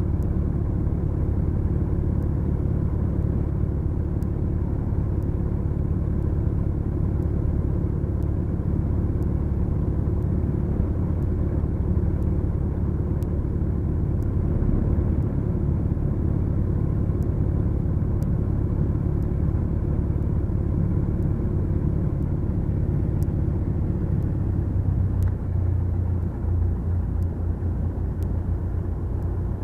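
The twin four-cylinder Lycoming engines of a Beechcraft Duchess running steadily. About 25 seconds in, the engine note changes and settles into a new steady pitch, a change in power setting.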